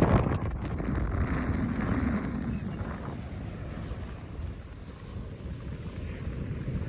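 Wind buffeting the microphone, a steady low rumbling noise that is strongest for the first three seconds and then eases.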